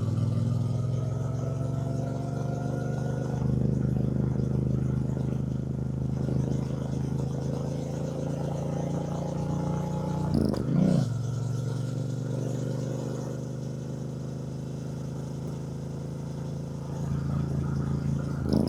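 2024 Triumph Bonneville T120's 1200 cc parallel-twin engine running under way, its pitch rising for the first few seconds as it accelerates, then holding steady. A short break in the engine note comes about ten seconds in.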